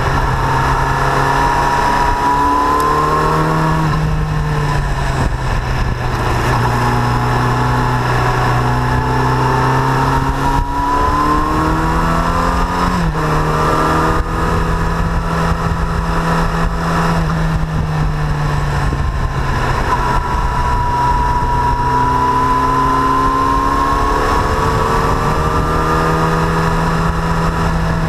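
Yamaha FZ8 Fazer's 779 cc inline-four engine running under way, its pitch gliding up and down as the bike speeds up and slows, with several sudden steps in pitch. Under it is a steady rush of wind and road noise.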